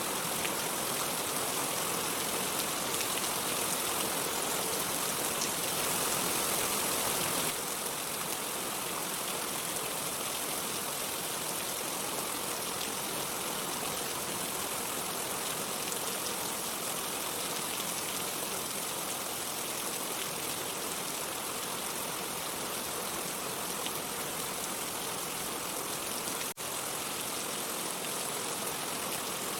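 Steady rain falling, a continuous even hiss. It drops slightly in level about seven seconds in and breaks for an instant near the end.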